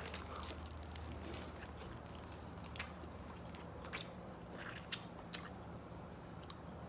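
A man biting into and chewing a fried chicken sandwich between glazed donuts: faint chewing with a few soft clicks, over a low steady hum.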